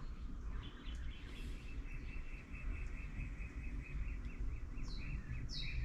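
Bird song: a fast run of short, even chirps at one pitch, about four a second, then near the end two higher notes that slide downward, over a low steady background rumble.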